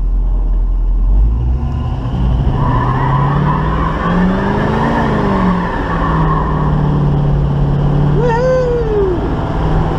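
A 1972 Chevy Nova's 350 V8 engine running while driving, its pitch rising and then falling back about halfway through. About eight seconds in there is a brief squeal that rises and falls.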